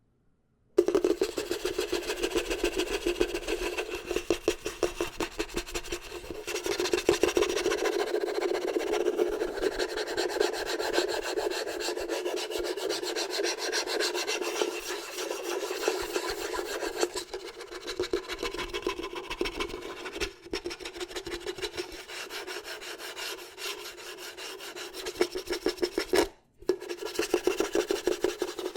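Fast ASMR scratching close to the microphone: a dense run of quick scraping strokes that starts about a second in, breaks off briefly near the end, then picks up again.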